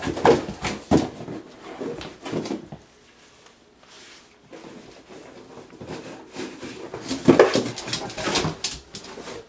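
A coyote rummaging at a toy with a treat inside, making irregular knocks and rustles in bursts, with a quieter stretch in the middle.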